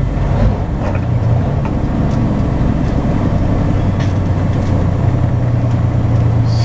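Semi truck's diesel engine running with a steady low hum as the truck drives slowly, heard from inside the cab.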